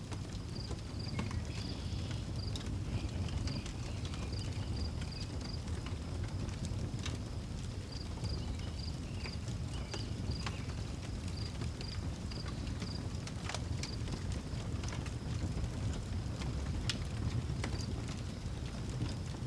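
Outdoor wood fire crackling, with scattered sharp pops over a low steady rumble. A cricket chirps in an even, pulsing rhythm throughout, and faint bird calls come in about a second in and again around eight seconds in.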